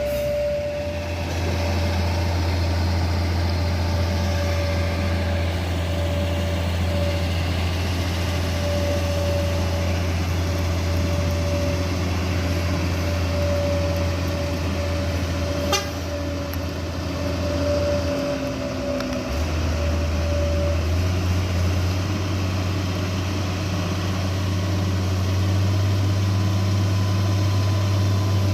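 A heavy vehicle engine running steadily with a deep drone. It dips briefly about eighteen seconds in, then picks up at a slightly higher pitch. A thin wavering tone sits above it for most of the first twenty seconds, and there is a single sharp click near the middle.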